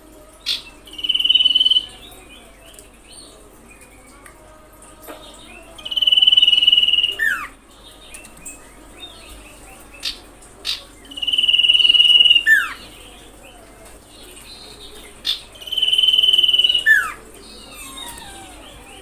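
Common iora calling four times, about five seconds apart: each call is a long, steady, high whistle of about a second that ends in a quick downward slur. A faint steady insect trill runs underneath.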